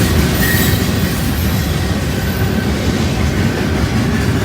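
Local freight train rolling past, a steady loud rumble of its wheels on the rails.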